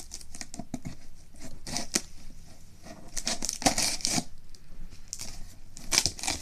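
A package being cut and torn open with a knife: a run of irregular scraping and tearing strokes, louder in clusters near the middle and near the end.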